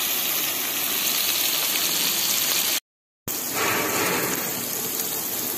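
Chopped onion, tomato and green chillies sizzling steadily in oil in an aluminium kadai as they are stirred, the vegetables well softened. The sound cuts out completely for about half a second midway, then the sizzling carries on.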